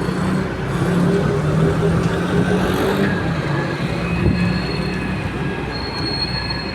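Heavy excavator's diesel engine running steadily under load while it digs, with a thin high-pitched metallic squeal coming in near the end.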